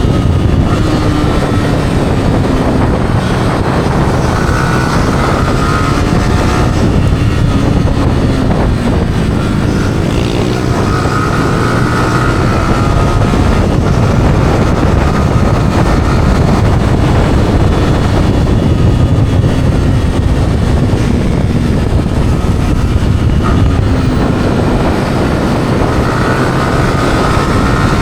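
Yamaha R15's single-cylinder four-stroke engine running through its stock exhaust while riding, the revs rising and falling several times, under heavy wind rumble on the microphone.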